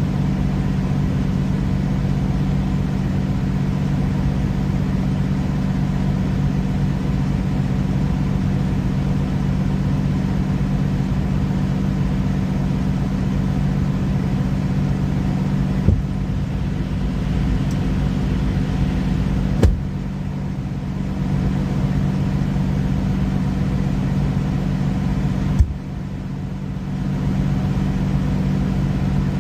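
Truck engine idling with a steady low hum. Three sharp clicks or knocks come at intervals in the second half, and the hum dips for a moment after the last two.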